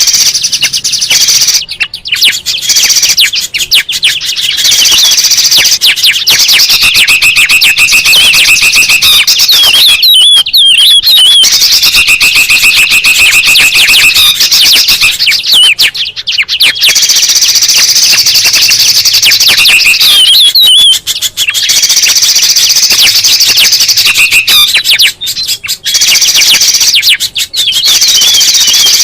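A noisy bird-lure recording of a crowded chorus of bulbuls and spiderhunters: many overlapping calls, loud and fast chattering and trilling, with short breaks now and then.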